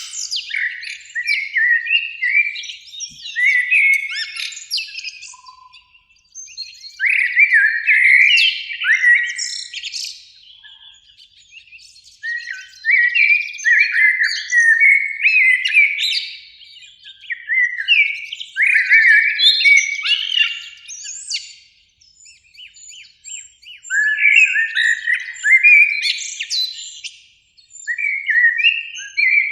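Common blackbird singing: a run of warbling, fluting phrases a few seconds long, each broken off by a brief pause.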